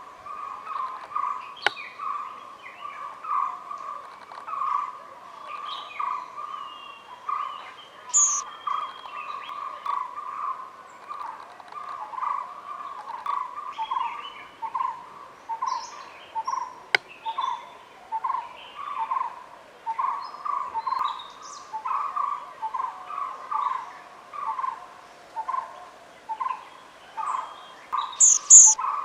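Wild birds calling: a long run of short notes repeated at one steady mid pitch, with a few brief high, thin calls over it, the loudest near the end.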